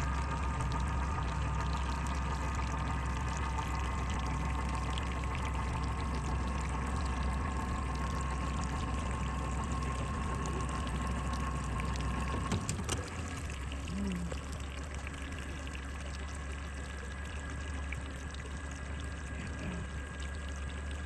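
Water sloshing and trickling over a steady low hum. The hum's level drops and the sound changes about twelve and a half seconds in.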